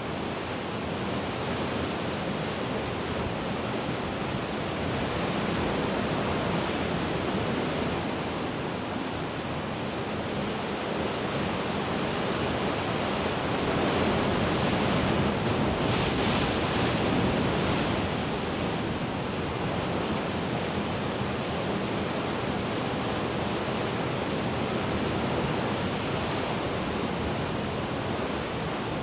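Mediterranean sea waves washing against the shore in a steady hiss that swells and eases, with the biggest surge about halfway through.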